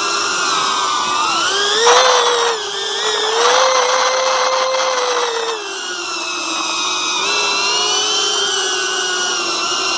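Cinewhoop FPV drone's small motors and propellers whining steadily, the pitch rising and falling as the throttle changes. A louder rush of noise comes about two seconds in and again from about three and a half to five and a half seconds.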